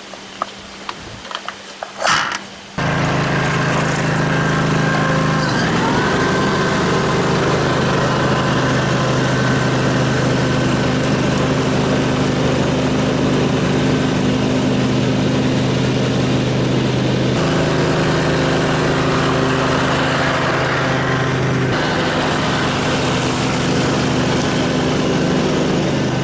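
A few light clicks, then the Simplicity lawn tractor's engine starts about two seconds in and runs steadily. Its pitch sags briefly a few seconds after starting and comes back, and its tone shifts slightly twice later on.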